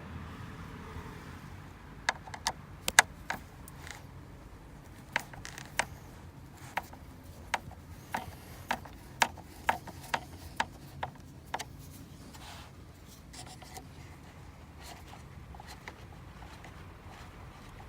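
Irregular sharp clicks and taps of a Torx screwdriver and plastic dash parts, about fifteen over several seconds, as the two screws of a car's interior temperature sensor are taken out. A faint low hum runs underneath.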